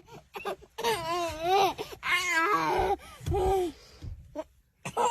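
A young child laughing in two long bursts of wavering pitch, then a shorter one.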